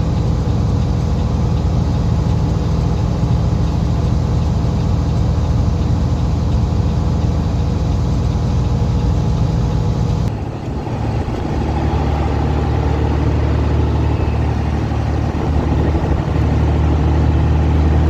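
Semi truck's engine running steadily, heard from inside the cab while driving. About ten seconds in the sound dips briefly and settles to a lower engine note.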